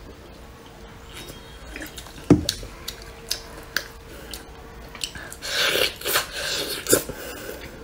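Biting into and chewing a glazed chicken leg close to the microphone: wet smacking and tearing of skin and meat, loudest from about five and a half seconds in. Earlier there is one sharp thump about two seconds in and a scatter of small clicks.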